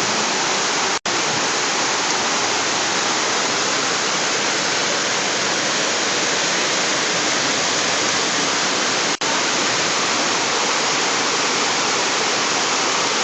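Heavy rain pouring down in a steady, dense hiss. The sound drops out for an instant twice.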